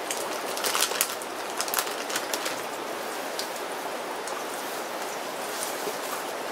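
Steady hiss of rain falling. Sharp crackles and clicks come thickly through the first two and a half seconds, then thin out.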